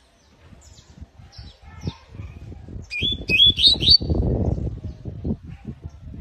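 Canary chirping in short high calls, with a quick run of four rising chirps about halfway through. Low rustling and knocking underneath grows louder in the second half.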